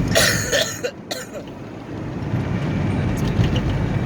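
Car cabin road noise: a steady low rumble of tyres and engine while driving on a snowy highway, with a short breathy burst in the first second.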